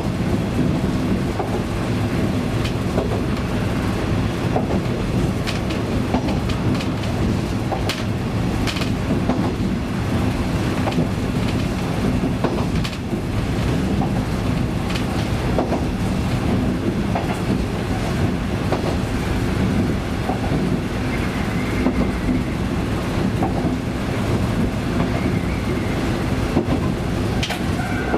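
KiHa 20-type diesel railcar (KiHa 205, built 1965) running along the line: a steady diesel engine drone with the wheels clicking now and then over rail joints.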